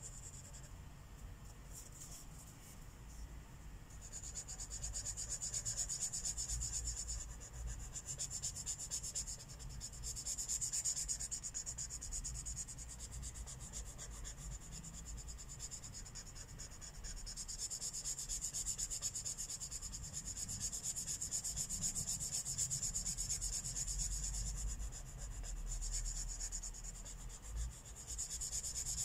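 Marker tip rubbing across paper while colouring in, with quick back-and-forth strokes. The scratching comes in stretches of a few seconds with softer gaps between.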